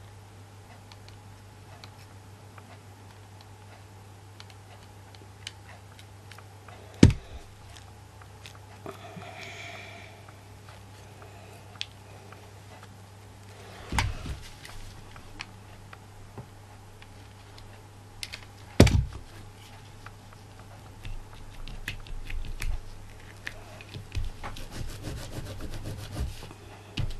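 Handling noises of craft work on a tabletop: three sharp knocks spaced several seconds apart, then a run of small rustling and tapping sounds near the end, over a steady low hum.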